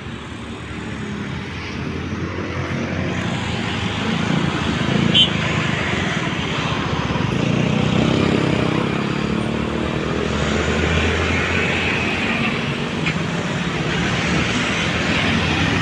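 Roadside traffic with a large vehicle's engine running, growing louder over the first several seconds as it comes closer, then holding steady.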